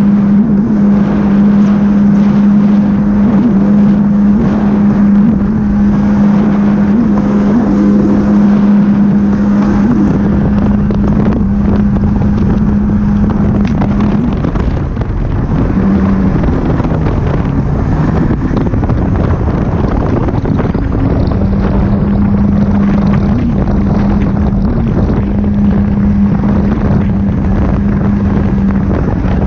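Jet ski engine running at speed with a steady drone, and wind buffeting the microphone. The engine note eases off about halfway through and picks up again a few seconds later.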